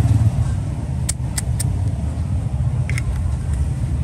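Steady low rumble of road traffic, with a few sharp metal clicks from a Zippo lighter being handled: three quick ones about a second in and one more near three seconds in.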